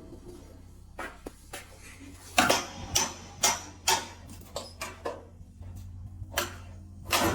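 Metal clinking and knocking: a dozen or so sharp, irregular hits, more frequent and louder from about two seconds in, over a faint steady low hum.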